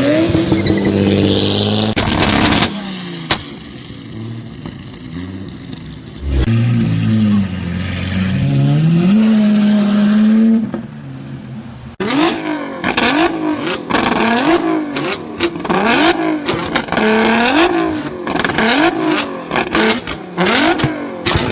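Performance car engines revving hard, with one loud exhaust bang about two seconds in. From about the middle, an engine is blipped repeatedly about once a second, with sharp exhaust pops and bangs crackling between the revs.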